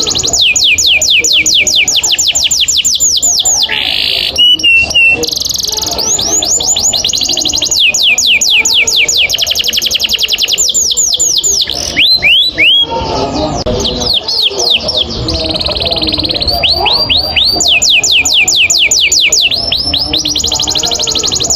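Domestic canary singing its long rolling song: long fast trills of the same falling whistled note repeated many times a second, broken by brief pauses and a few different phrases.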